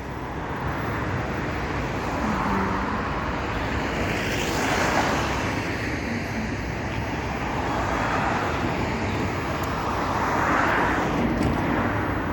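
City tram running on its rails: a steady rumble with slow swells of wheel-on-rail noise and a faint low motor tone.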